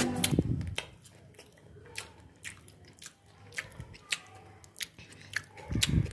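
Someone biting into and chewing a piece of omelette made with crushed potato chips: a string of short, sharp, irregular crunching clicks and mouth sounds.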